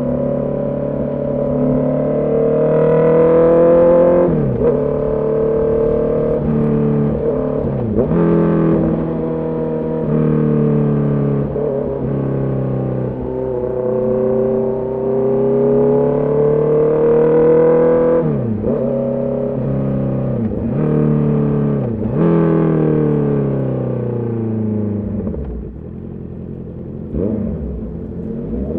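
Honda CB650R's inline-four engine under way, revs climbing and dropping sharply several times as the bike shifts up through the gears. Near the end the revs fall away as the bike slows, then pick up again.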